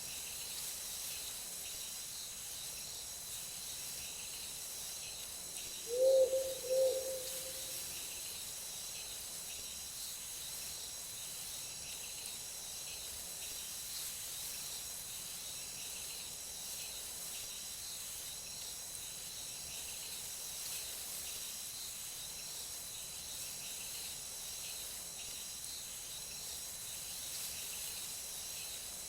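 A steady night chorus of crickets and other insects, a high even shrilling throughout. About six seconds in, an owl gives two short low hoots, the second trailing off.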